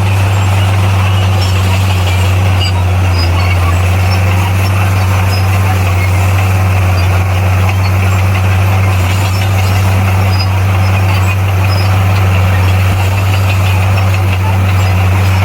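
Heavy diesel engine of a bulldozer at work, running steadily at an even pitch with a constant low drone.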